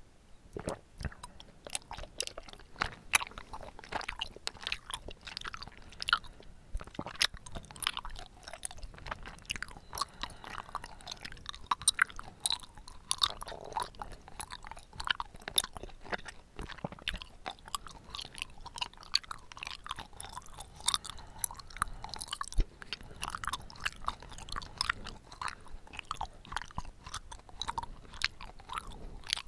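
Close-miked chewing of bubble tea tapioca pearls: a dense, irregular run of small wet clicks and smacks.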